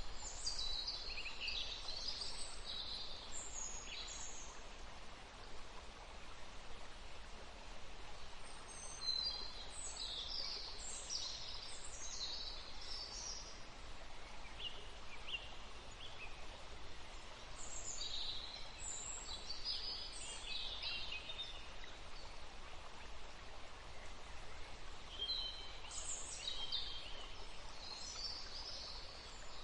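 Forest stream running steadily, with songbirds singing in four spells of quick, high phrases.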